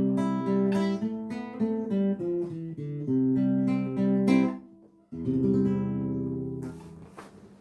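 Acoustic guitar playing the closing phrase of a song: picked notes, then a final strummed chord about five seconds in that rings out and fades. A couple of brief soft knocks follow near the end.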